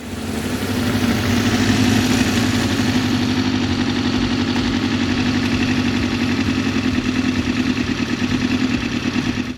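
1987 Suzuki GSX400X Impulse's 400cc inline-four engine running steadily, coming up in level over the first second.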